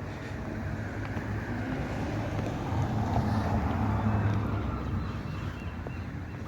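Town street traffic: a vehicle passing, its noise swelling to a peak in the middle and fading away, over a steady low rumble.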